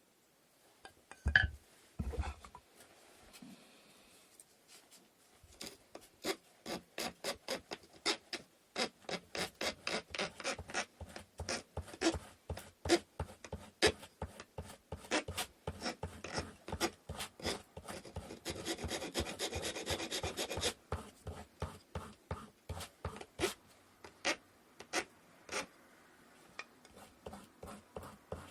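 Wood being sanded by hand in short back-and-forth strokes, about three a second, with a quicker unbroken spell of rubbing past the middle. Two sharp knocks come just before the strokes begin.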